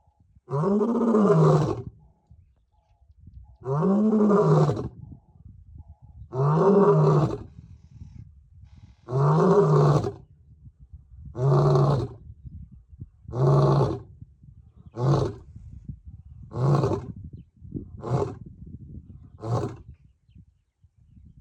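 African lion roaring in a full bout. There are four long, deep roars, each rising then falling in pitch, followed by six shorter grunts that come faster and fade toward the end.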